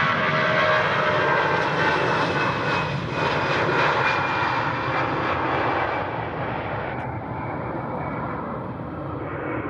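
Airliner engines heard as the plane passes, a loud steady noise with high whining tones that grows duller and fades from about six seconds in as the aircraft moves away.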